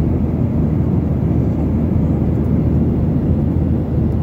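Steady low rumble inside a jet airliner's cabin in flight: engine and airflow noise, even throughout.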